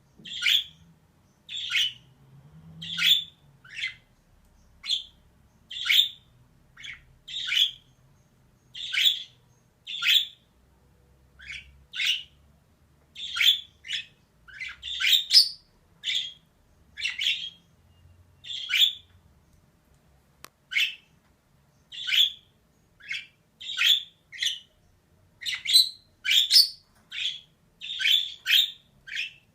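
Female budgerigar calling, a string of short chirping calls at about one a second, some in quick pairs.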